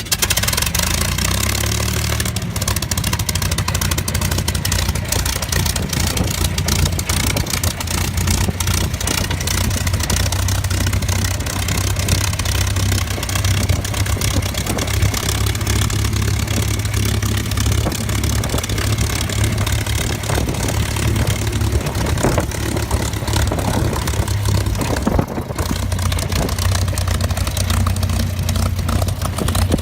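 P-51D Mustang's Packard Merlin V-12 engine running on the ground just after start-up, with a loud, steady low rumble and crackling exhaust. The rumble settles in the first couple of seconds and dips briefly near the end.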